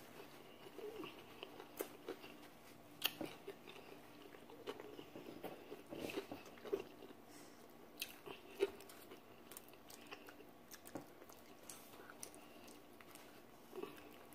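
People chewing and biting into crispy breaded fried chicken close to the microphone, with irregular sharp crunches of the fried skin.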